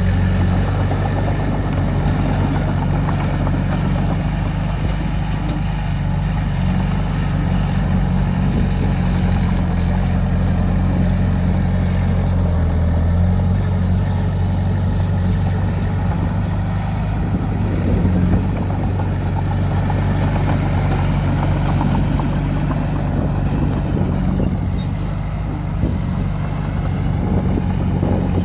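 Diesel engine of an earthmoving machine running steadily at an even pitch, with a few faint light ticks at times.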